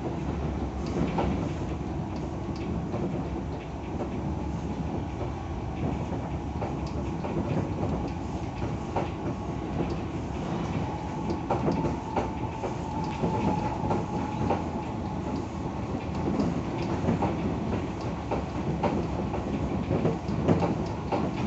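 Tokyo Metro 17000 series electric train running between stations, with a steady rumble and wheels clicking over rail joints. A steady tone comes in about halfway through and lasts a few seconds.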